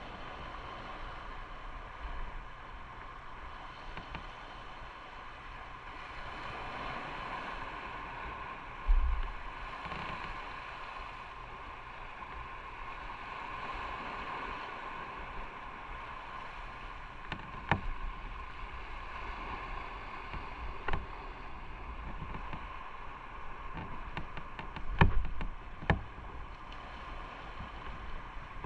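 Motorcycle on the move: a steady rush of wind and engine noise, broken by a few short thumps and knocks around 9, 18, 21 and 25 seconds in.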